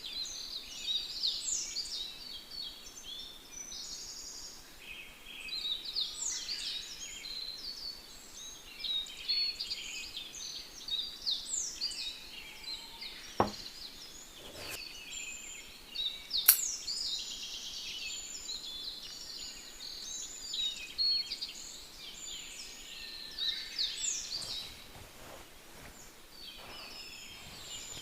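Songbirds singing in short, chirpy phrases every couple of seconds over a faint steady hiss, with two sharp clicks around the middle.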